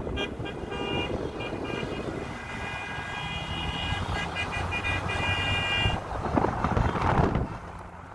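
Car and truck horns honking over and over in a vehicle parade, short toots and some longer held blasts, over the low running of engines. A louder rushing noise comes shortly before the end.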